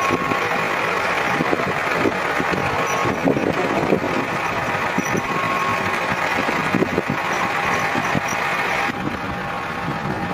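Motor vehicle engine running steadily, a little quieter about nine seconds in.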